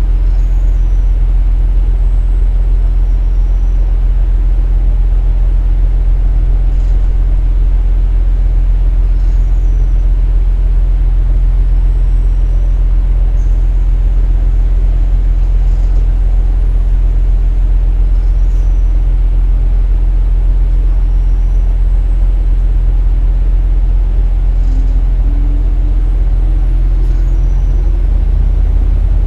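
KiHa 47 diesel railcar running along the line, its underfloor diesel engine giving a steady low drone. Near the end a fainter tone rises in pitch.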